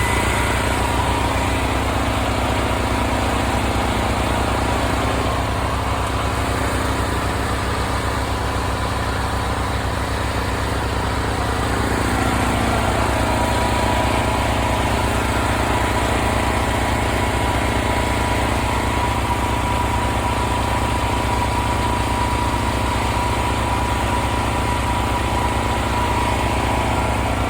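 Portable generator and tractor engine running steadily side by side, a constant engine drone that powers pumps draining a flooded pond.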